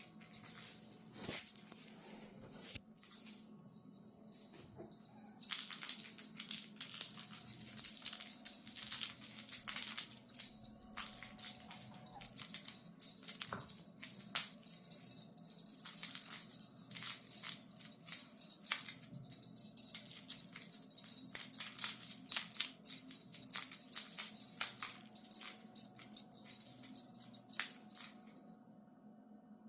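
Kittens scrambling and batting at a fishing-rod cat toy: a busy, irregular clatter of small clicks, taps and rattles that picks up a few seconds in and dies away near the end.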